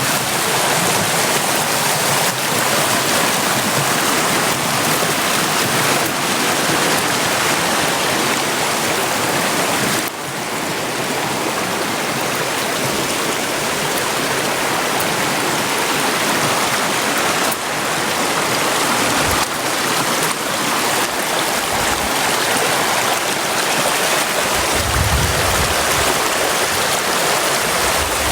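A river rushing steadily, a dense, even wash of flowing water, with a short low rumble near the end.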